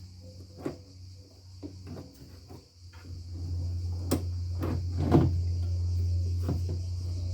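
Hand tools and plastic car parts clicking and clunking during disassembly work, a few knocks at a time, over a steady low hum that grows louder about three seconds in.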